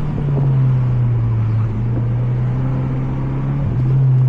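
Mazda 3 MPS (Mazdaspeed3) turbocharged four-cylinder engine running under load on track, heard from inside the car; the engine note holds fairly steady, then steps up slightly about three and a half seconds in.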